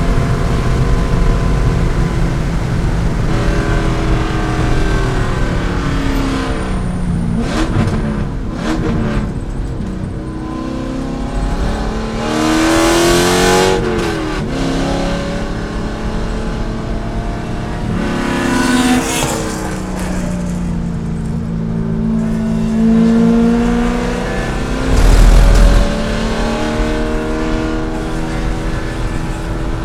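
C5 Corvette's 5.7-litre V8 at racing speed, its pitch rising under acceleration and dropping on lifts and downshifts several times over. Brief louder rushes of noise come in between.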